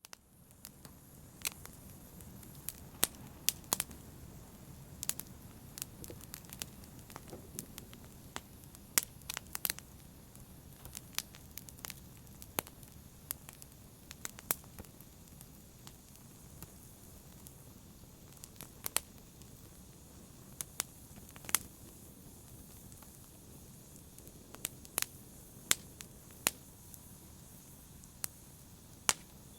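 Wood fire burning in a fireplace, with a steady low rumble and frequent irregular crackles and sharp pops.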